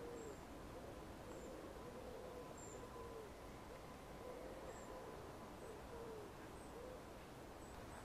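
Faint bird calls from the creekside: a steady run of low calls, each rising and falling in pitch, about two a second, with a thin high chirp about once a second.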